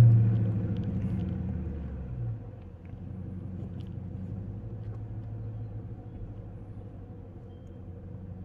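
The RT's loud, naturally aspirated engine and exhaust droning, heard from inside the car: loud at first and easing off over the first two to three seconds, then settling into a steady lower drone.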